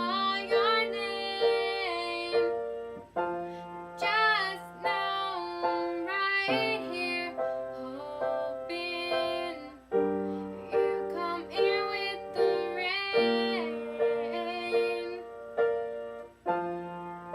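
A solo female voice singing a slow song over piano accompaniment, the piano notes striking and dying away between sung phrases.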